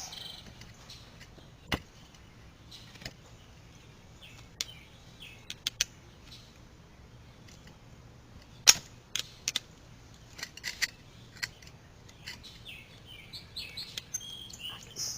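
Scattered sharp clicks and light metal knocks as a half-inch drive ratchet works the selector lever off the transmission shaft and the parts are handled, with the loudest knock about nine seconds in.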